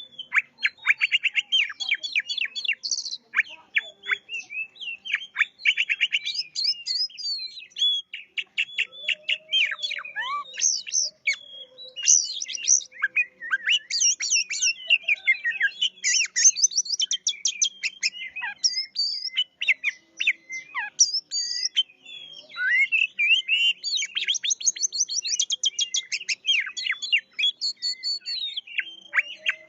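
Oriental magpie-robin (kacer) in full, nonstop song. Rapid rattling runs of sharp notes alternate with whistled and warbled phrases, with only brief pauses.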